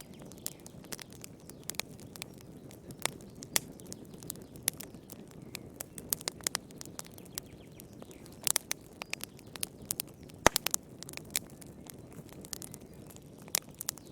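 Wood fire burning in a fireplace: irregular sharp crackles and pops over a low steady rush of flame, with a cluster of louder pops about eight seconds in and a single loud snap about ten and a half seconds in.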